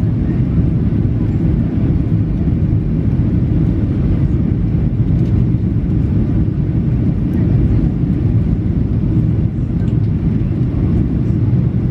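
Airliner cabin noise inside a Boeing 737-800 in flight: a steady low rumble of its CFM56 turbofan engines and rushing airflow.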